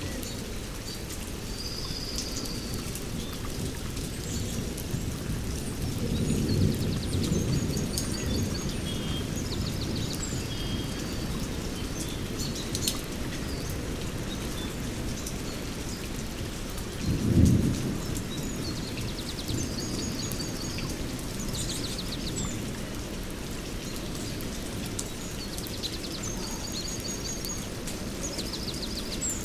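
Rainforest thunderstorm: steady rain with a low rumble of thunder that swells about six seconds in and peaks more sharply about seventeen seconds in. Birds chirp and trill throughout over the rain.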